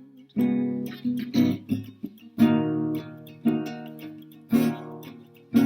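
Acoustic guitar strummed in an instrumental gap between sung lines: chords struck about once a second, each ringing and fading before the next.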